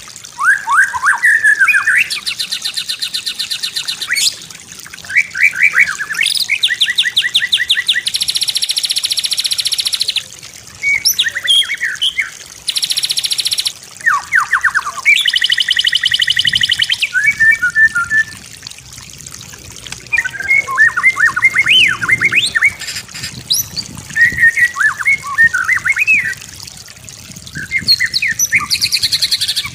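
White-rumped shama (murai batu) singing a varied song. Rapid buzzing trills alternate with whistled and chattering phrases, each burst lasting a few seconds with short pauses between.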